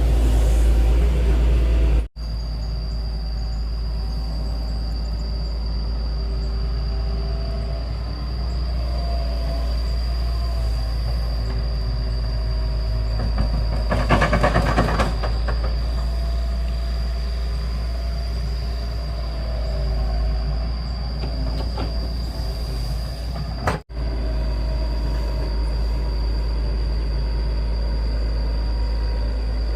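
Excavator's diesel engine running steadily with a deep rumble and a wavering engine note, and a short rattling clatter about halfway through.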